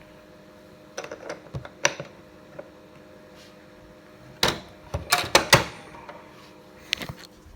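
Sharp clicks and knocks from handling a Beko tumble dryer, in three groups: a few about a second in, a rapid cluster about halfway, and one more near the end. A faint steady hum lies underneath.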